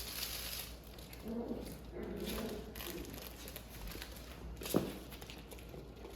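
Six-week-old Welsh Terrier puppies scuffling and playing with toys: rustling and shuffling, a few faint small puppy vocal sounds, and one brief sharp sound about three-quarters of the way through.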